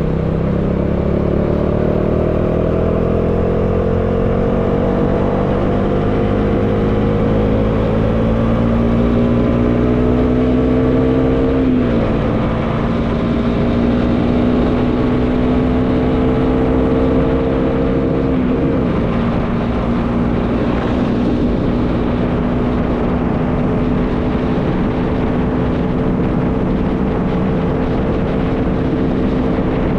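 Bajaj Dominar 400's single-cylinder engine under way, climbing slowly in pitch, broken by two brief gear shifts, then holding a steady cruise. Wind rushes over the microphone throughout.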